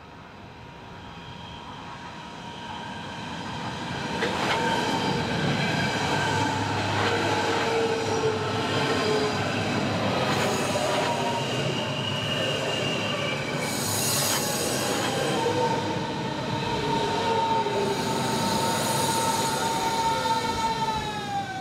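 Berlin S-Bahn class 481 electric train approaching and running close past, growing louder over the first few seconds, with wheels squealing on the rails over a steady rumble and a few sharp knocks. Near the end its high tones slide down in pitch.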